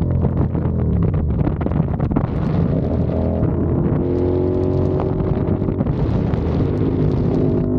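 CFMOTO 450SR's parallel-twin engine running under way, its pitch rising about halfway through as it accelerates, then holding steady.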